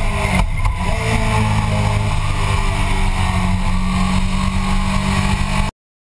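Motorcycle engine running hard at speed under a steady rush of wind noise, its note breaking briefly about half a second in before holding again. The sound cuts out completely near the end.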